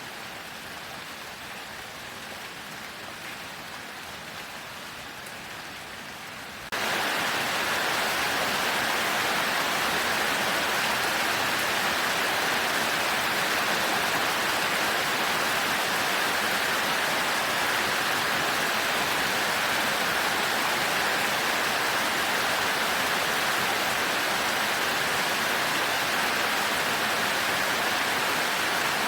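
Heavy rain falling steadily. About seven seconds in it abruptly turns much louder and stays that way.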